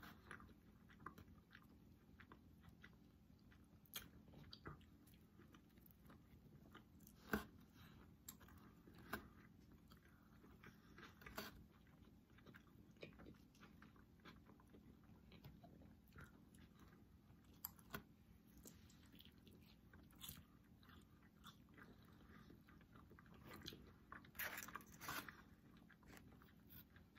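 Faint chewing and biting of pizza and cheese sticks, with scattered small mouth clicks and crunches. A sharper click comes about seven seconds in, and a cluster of crunchy bites near the end.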